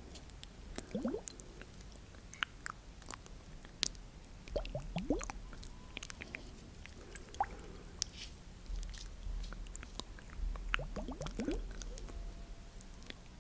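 Close-miked wet ASMR mouth sounds: scattered sharp clicks and squishy smacks, with three short upward-sliding wet sounds, about a second in, around five seconds in and near the end.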